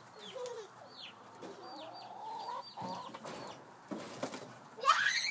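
Chickens calling: chicks peeping in short falling chirps over lower gliding clucks from an adult bird. A loud rising squeal comes near the end.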